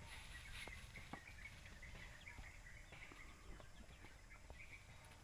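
Near silence: quiet rural ambience with faint, repeated bird chirps and a few scattered soft clicks.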